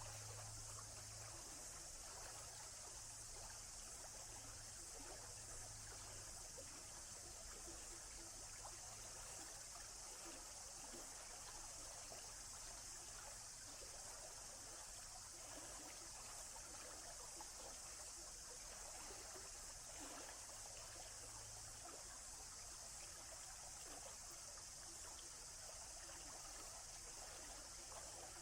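Faint, steady running water of a stream trickling and flowing, with no change in its flow.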